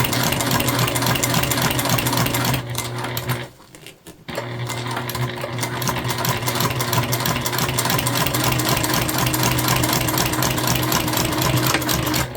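Sewing machine running at a steady speed while topstitching through vinyl, its needle stitching in a fast even rhythm over a motor hum. It stops for about a second and a half near three seconds in, then runs on again.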